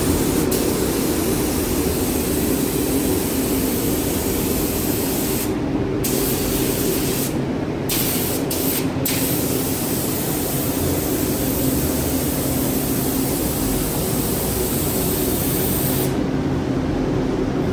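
Paint spray gun hissing steadily as it sprays primer-sealer onto plastic trim pieces, over a steady low hum. The hiss stops briefly a few times as the trigger is let off, then cuts out near the end, leaving only the hum.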